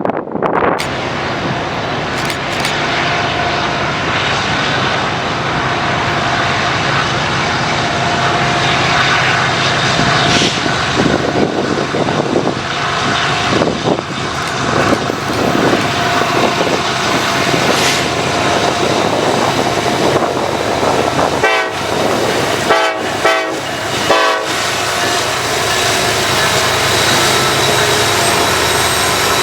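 Freight train running by, a steady rumble and rattle under heavy wind noise on the microphone.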